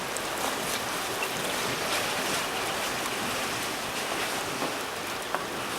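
Sea water washing and splashing: a steady rushing with small scattered ticks of splashes.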